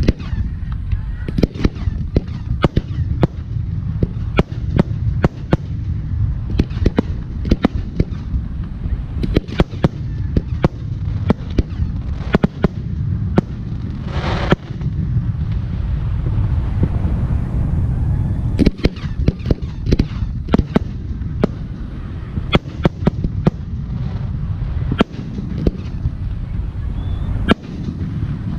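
Aerial firework shells bursting one after another, a dense string of sharp bangs over a continuous low rumble. About fourteen seconds in comes a longer, fuller burst lasting under a second.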